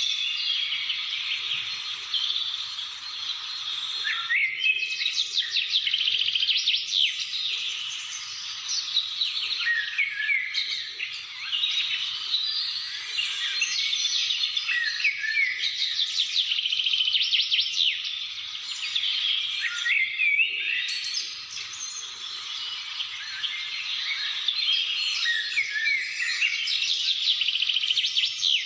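Many birds singing and chirping at once, a dense overlapping chorus of short calls, quick trills and rising and falling notes.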